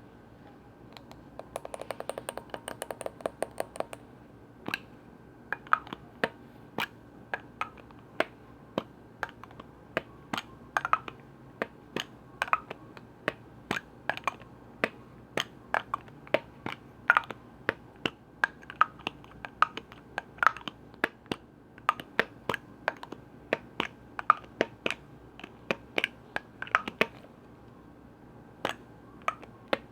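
Tapping on containers and lids: a fast flurry of taps for about two seconds near the start, then single sharp taps a few times a second, some ringing briefly.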